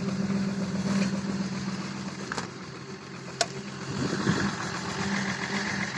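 BMW X5 E53 3.0d's inline-six turbodiesel idling steadily just after a cold start, with a sharp click about three and a half seconds in.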